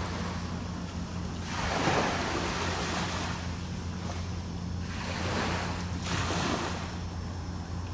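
Ocean surf: waves breaking and washing in, swelling and fading three times, over a steady low rumble of wind on the microphone.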